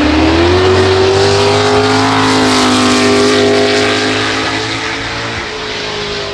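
A high-performance car engine at high revs going past, its pitch climbing over the first second or so and then holding steady at full throttle, with a hiss of tyres and air above it.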